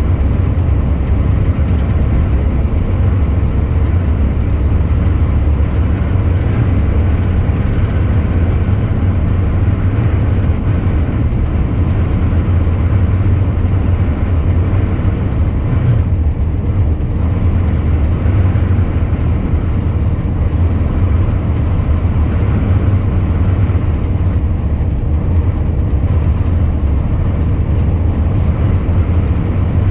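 Truck on the move: a steady, loud low rumble of engine and road noise.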